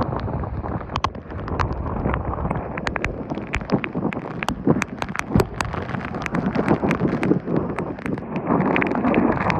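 Hurricane wind and a heavy, wind-driven downpour: a constant rushing noise with rapid, irregular sharp ticks of raindrops pelting.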